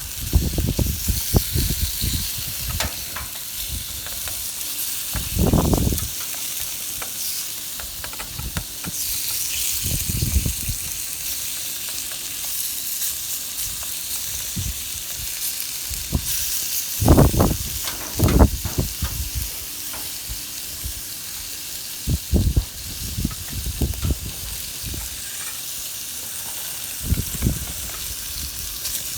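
Food sizzling in a frying pan over a campfire, a steady high hiss, with scattered low knocks and bumps, the loudest about a third of the way in and twice more past halfway.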